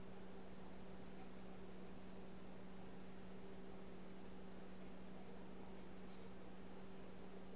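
Faint, irregular strokes of a paintbrush on paper, over a steady low electrical hum.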